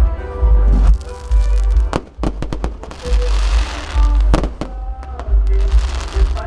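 Fireworks going off: a run of sharp bangs and crackling bursts over loud music with a heavy bass beat.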